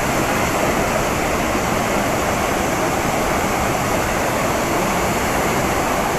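Athirappilly Falls, a large waterfall on the Chalakudy River, crashing down in a loud, steady rush of water.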